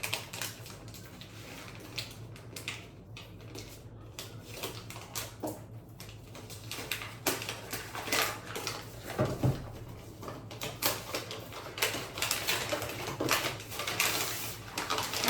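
A gift package being opened by hand: irregular crinkling and rustling of the wrapping with scattered sharp clicks, getting busier about halfway through.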